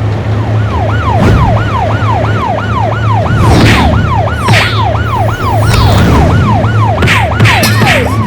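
Cartoon emergency-vehicle siren wailing in fast falling sweeps, nearly three a second, over a steady low hum, with a few short whooshing bursts mixed in.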